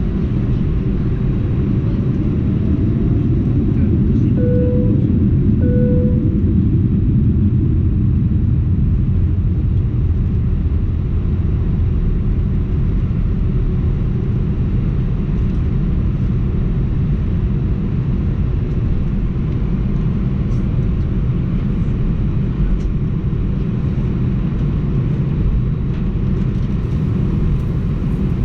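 Airbus A319 cabin noise: a steady low rumble of the engines and airframe heard from inside the cabin. Two short tones sound about four and a half and six seconds in.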